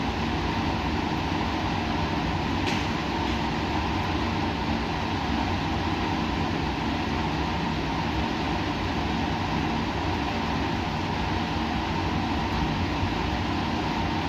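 Steady hum and rushing air of laboratory machinery and ventilation, with several constant hum tones under an even hiss. A faint tick sounds about three seconds in.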